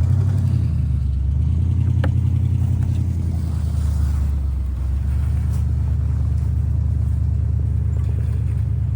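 Car engine running steadily at low revs, with a single short click about two seconds in.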